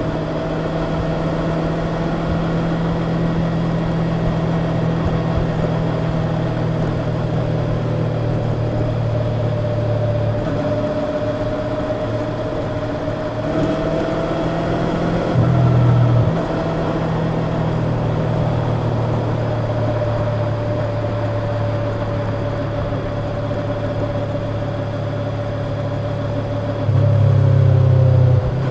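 Yamaha YZF-R25's parallel-twin engine running through its stock exhaust at a steady, held engine speed. It gets briefly louder twice, about halfway through and again near the end, as the throttle is opened.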